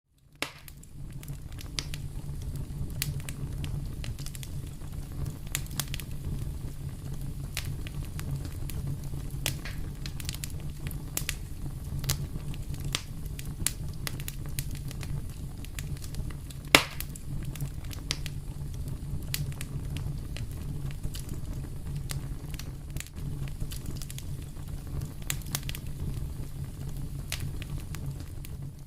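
Fire in a fireplace crackling: a steady low rumble of flames with frequent sharp pops and snaps, and one much louder pop about two-thirds of the way through.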